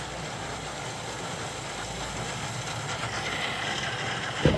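Steady rumble of a car's engine and road noise, then a single loud thump near the end.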